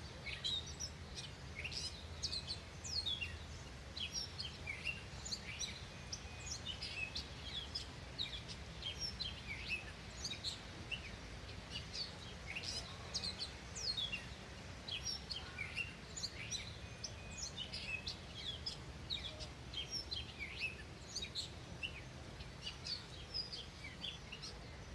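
Several small birds chirping continuously, a dense stream of short, quick, high calls, over a low steady background rumble.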